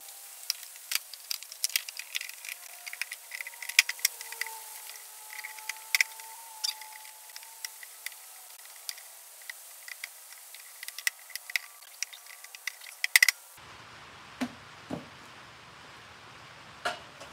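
Rain: many irregular ticking drops over a light hiss. Shortly before the end this cuts to a quieter room sound with a few knocks.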